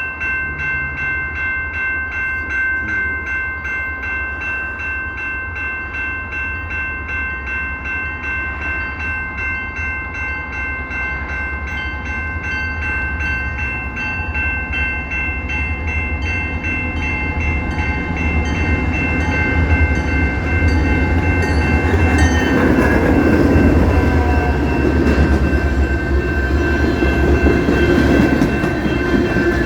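CP Rail freight train passing, a steady low rumble that grows louder over the last third, with a steady high ringing tone pulsing at a regular rate throughout.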